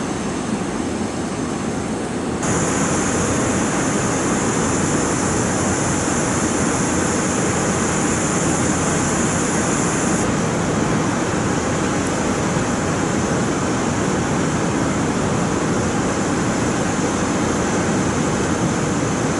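Steady rumbling hiss of an electric train standing in a depot yard. About two seconds in it gets abruptly louder and a steady high-pitched hiss joins it.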